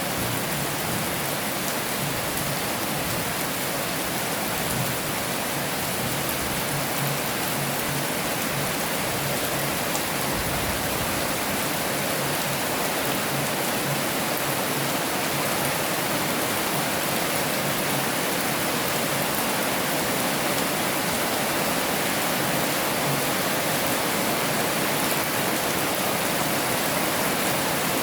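Heavy rain falling steadily: an even, dense hiss.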